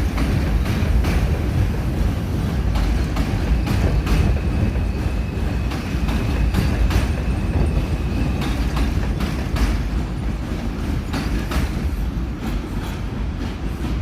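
New York City subway train running through the station: a steady heavy rumble with repeated clacks of the wheels over rail joints, and a thin high tone for a few seconds in the middle.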